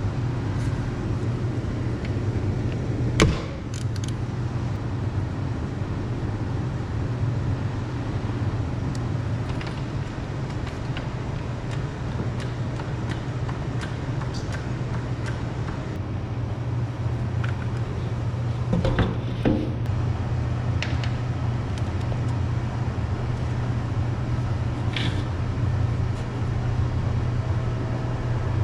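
A steady low engine-like drone, with a sharp knock about three seconds in and a few more knocks and clicks later on.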